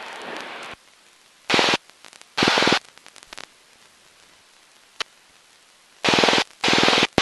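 Headset intercom gating open and shut: short bursts of light-aircraft cockpit noise, engine and airflow hiss with a fast pulsing, cut in about five times between stretches of near silence, the way a voice-activated intercom mic lets noise through briefly when it trips.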